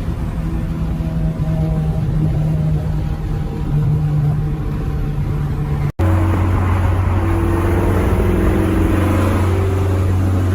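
Honda Civic EK hatchback's engine running steadily while driving. About 6 s in the sound cuts out briefly, then the engine note picks up again and climbs as the car accelerates.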